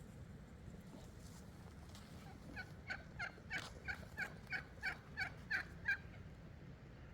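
Domestic fowl calling: a run of about ten short, quick calls, about three a second, starting a couple of seconds in and stopping about a second before the end.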